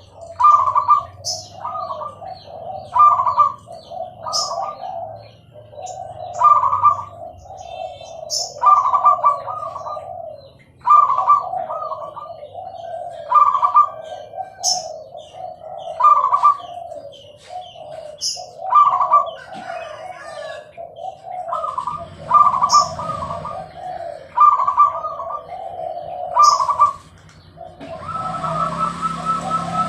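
Zebra dove (perkutut) cooing over and over, its rapid, stuttering coo phrases coming about every two seconds. Short, sharp high chirps fall between the phrases, and a steady hiss comes in near the end.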